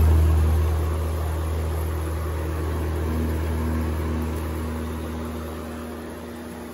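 Vintage Danby 40-pint dehumidifier running: a steady low compressor hum under the fan's rushing air, gradually dropping in level. The owner calls it a very happy compressor, good and quiet.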